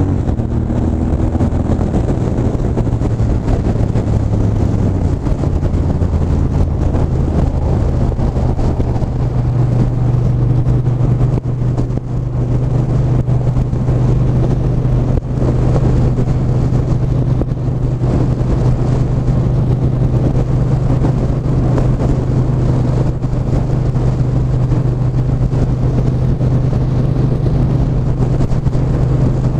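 Triumph 1200 cc parallel-twin motorcycle engine running on the road at a steady engine speed, with wind rush over it. The engine hum is lower for the first few seconds, then settles to a steady, slightly higher note from about nine seconds in.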